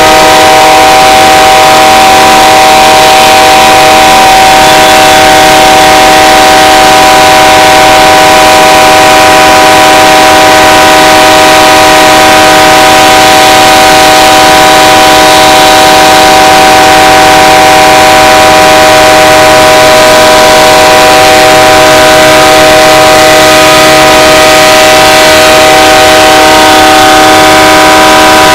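BNSF diesel locomotive's air horn blowing continuously as one steady, unbroken multi-note chord, very loud. The horn is stuck sounding on a stopped train with no engineer at the controls.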